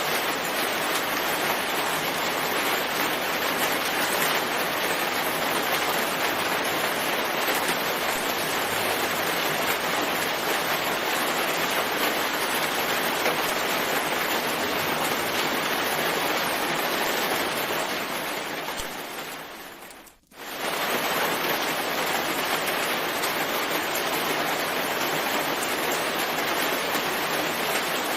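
Steady rain, a dense even hiss. About two-thirds of the way through it fades away over a couple of seconds to a moment of near silence, then comes straight back at full level.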